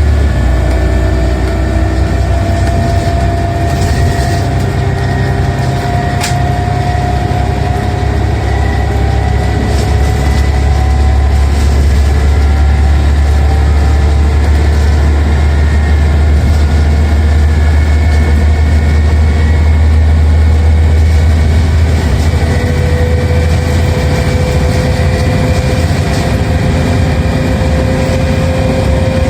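Scania OmniCity single-deck bus heard from on board, its engine running under way with a loud, steady deep drone. Over it a whine from the ZF automatic gearbox rises slowly in pitch at the start and again near the end as the bus gathers speed.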